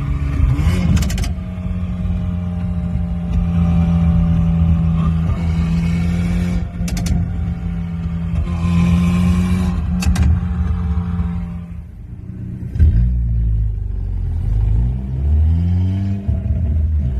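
Car exhaust note: an engine running under load with a steady drone. There are sharp cracks about a second, seven and ten seconds in, then a deeper, wavering rumble over the last few seconds.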